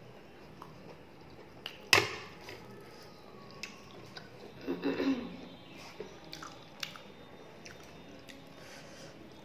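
Close-miked mouth sounds of a person eating mutton curry and rice by hand: soft wet chewing with small scattered clicks and smacks. A sharp knock about two seconds in is the loudest sound, and there is a short louder burst around the middle.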